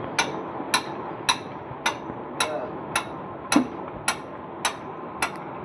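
Engine cylinder-sleeve boring machine running with a steady hum and a sharp, ringing metallic tick about twice a second, as the cutter works the sleeve out of the cylinder.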